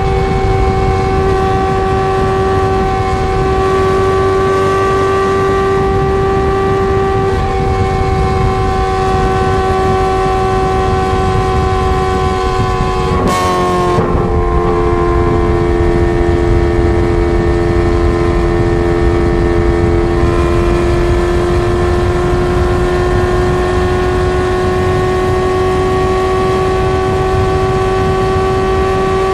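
Ferrari 430 Scuderia's 4.3-litre V8 running through a straight-pipe exhaust, a loud steady drone at nearly constant revs. About halfway through there is a brief sharp break in the note, after which it settles slightly lower and slowly climbs again.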